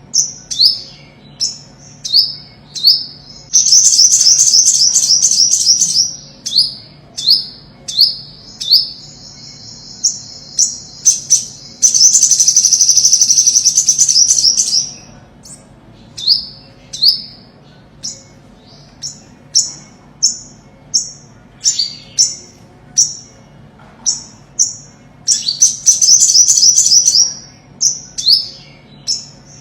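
Olive-backed sunbird singing: loud, high, sharp down-slurred chips repeated about once or twice a second, broken three times by a rapid two-to-three-second trill.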